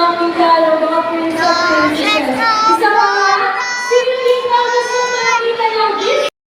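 Young children's voices singing together in held, wavering notes, cutting off abruptly near the end.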